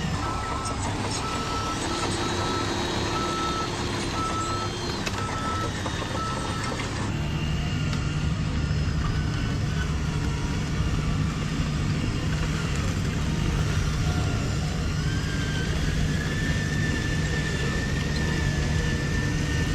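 Radio-controlled construction truck running, with a reversing beeper beeping at a steady pace for about the first seven seconds. After that the truck's motor and drivetrain run steadily, and a higher whine rises and then holds near the end.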